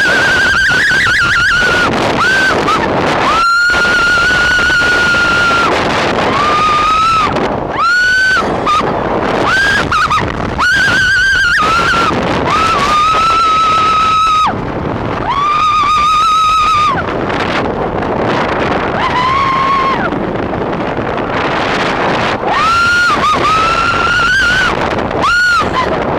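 Riders screaming on a wooden roller coaster, a run of long, high held cries one after another, over wind noise on the microphone and the rumble of the coaster train.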